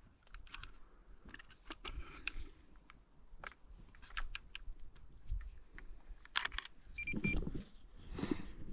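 A trail camera being handled: scattered small plastic clicks and knocks as it is opened and its buttons are pressed, with a short high electronic beep about seven seconds in.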